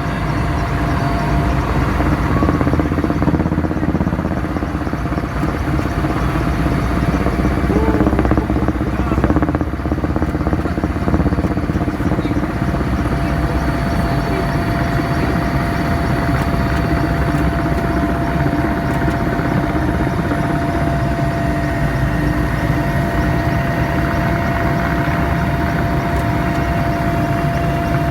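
Helicopter engine and rotor noise heard from inside the cabin: a loud, steady drone with a constant whine running through it.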